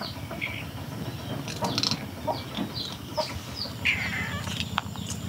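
Birds chirping: short, high, falling chirps repeating every half second or so, with a harsher call about four seconds in.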